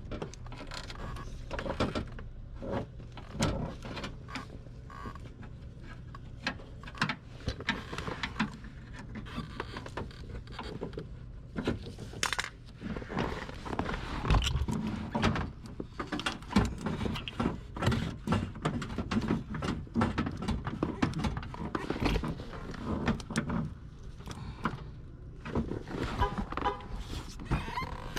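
Hand tools and metal parts clinking, knocking and scraping at irregular intervals, with a steady low hum underneath.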